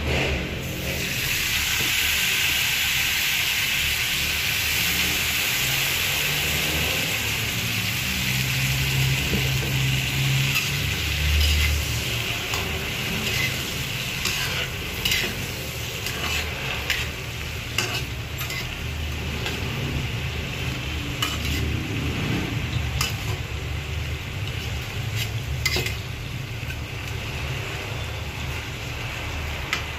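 Whole shrimp sizzling as they fry in a steel wok. From about the middle on, a metal spatula scrapes and clicks against the wok as they are stirred.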